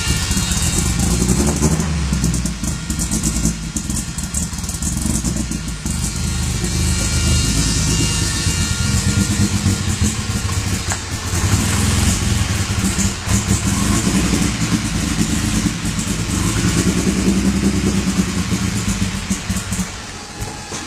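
Newly built 2.5-litre 8-valve Volvo B230 turbo four-cylinder running on its first startup, loud throughout, its level rising and falling.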